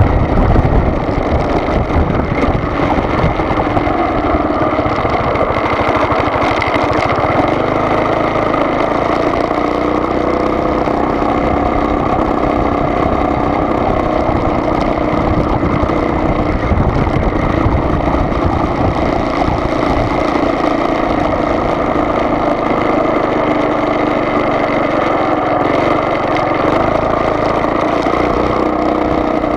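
Car driving, its engine and tyre noise running steadily, with a faint hum drifting slowly up and down in pitch.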